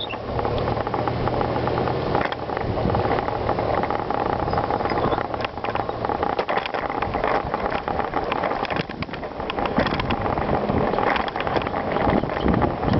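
Bicycle being ridden over rough ground: steady tyre noise with frequent rattles and clicks from the bike.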